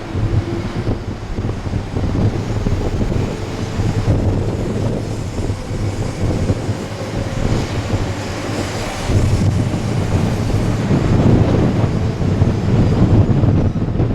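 Shinkansen train running past, its rail noise mixed with heavy wind buffeting on the microphone; a brighter hiss swells about halfway through.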